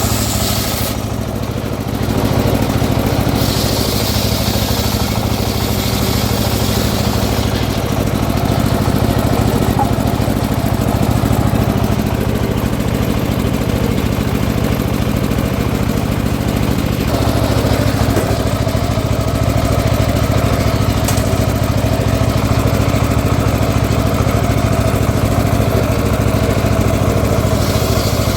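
Engine running steadily, powering a homemade circular sawmill. There is a short dip about a second in, a brief higher hiss a few seconds in, and a change in tone about two-thirds of the way through.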